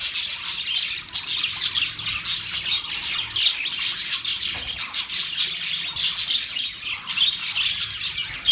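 A group of budgerigars chirping and warbling together, many rapid, overlapping high chirps without a break.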